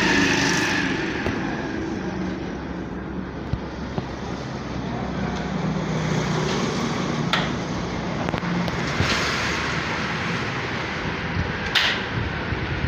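Steady motor-vehicle noise, a low engine hum over road or traffic noise, broken by a few sharp clicks, the loudest near the end.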